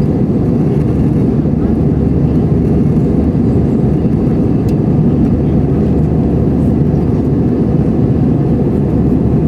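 Steady low roar inside an Airbus A320's cabin in flight: engine and airflow noise, even and unchanging.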